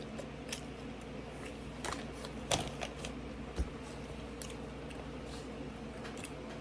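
Scattered soft clicks and crackles of food and its paper packaging being handled and eaten, over a steady low room hum.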